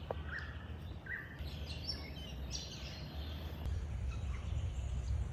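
Birds chirping in Australian bushland, a few short calls in the first three seconds, over a steady low rumble.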